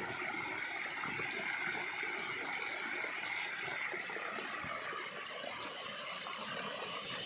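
Small waterfall cascading down and splashing steadily into a basin, a continuous rushing of water.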